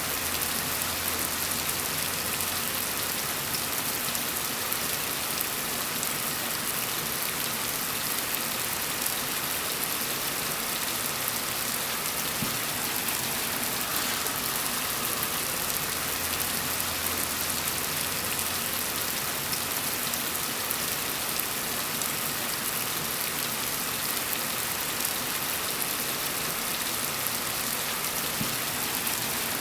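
Steady gentle rain falling, an even hiss of drops with no breaks. A faint low hum comes and goes underneath.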